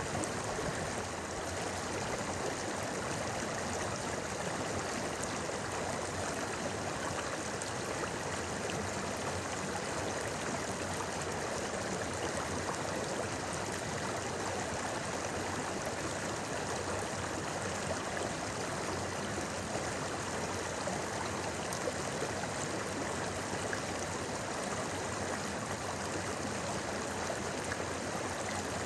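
A shallow river running over rocks, a steady rushing and babbling of water.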